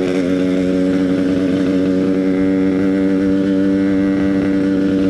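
Yamaha RX-King's single-cylinder two-stroke engine running at a steady speed through an EnzyProject aftermarket exhaust while the bike cruises, its pitch holding even.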